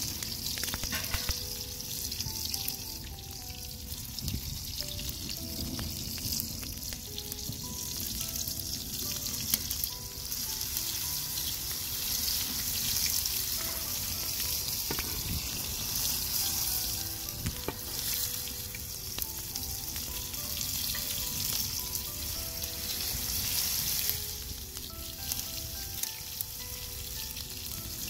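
Egg-battered cabbage rolls frying in hot oil in a wide metal pan, sizzling steadily, with occasional sharp pops and clicks.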